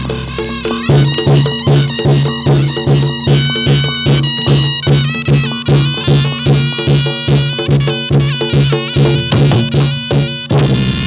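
Reog Ponorogo ensemble music accompanying a jathilan dance: drums and gong-chime percussion keep a steady fast beat under a held wind or chime melody.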